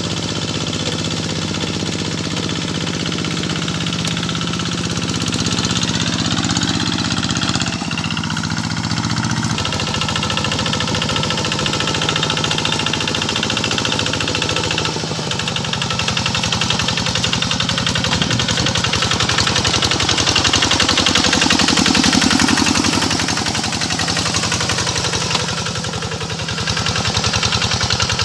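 Paddy-field tractor's diesel engine running steadily with a fast, even chugging beat while it pulls a harrow. It grows louder about twenty seconds in and dips briefly near the end.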